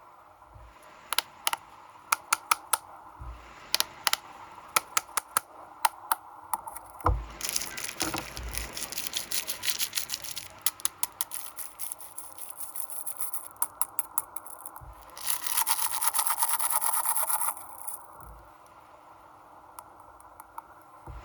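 Snack wrappers being handled and unwrapped: a string of sharp clicks and taps, then bursts of packaging crinkling, with a long, dense crinkle about fifteen seconds in.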